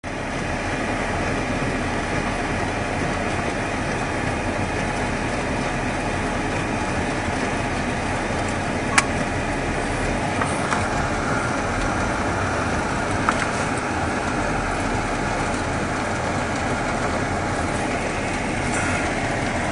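Steady vehicle noise heard from inside a pickup truck's cab, with a single sharp click about nine seconds in.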